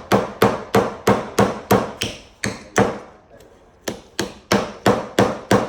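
A child hammering a nail into reclaimed wood: quick, even blows about three a second, a short pause about three seconds in, then the strikes resume at the same pace.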